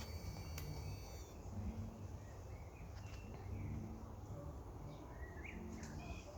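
A few faint bird chirps, mostly near the end, over a low steady outdoor background rumble.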